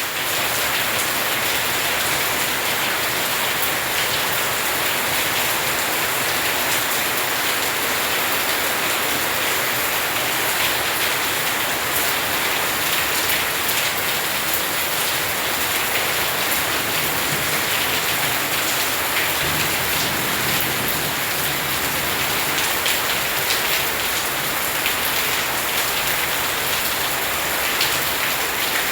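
Steady rain, with many individual drops ticking close by.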